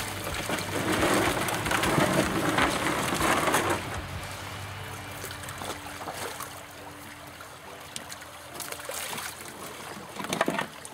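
Water splashing and pouring, loud for the first few seconds, then quieter, with a brief louder splash near the end.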